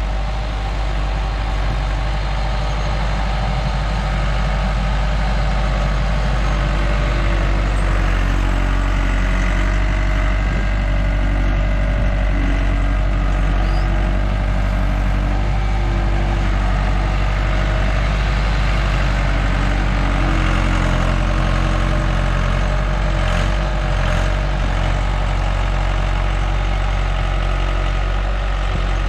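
Skid loader's diesel engine running steadily as it works, a loud, even engine hum whose pitch shifts a little as the load changes.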